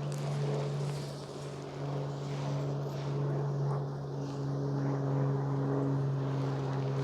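Honey bees from a heavily populated colony buzzing around an open hive: a steady low drone with overtones.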